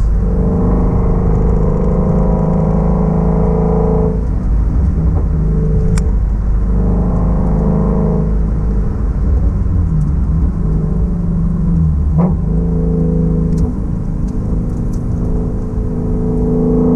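Shelby GT350's 5.2-litre flat-plane-crank V8 running at light throttle at low speed, with a steady drone that eases off and comes back a few times as the throttle is lifted and reapplied. A couple of brief sharp clicks sound about six and twelve seconds in.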